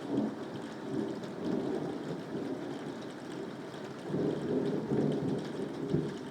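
A roll of thunder rumbles over steady rain, swelling again about four seconds in and dying away near the end.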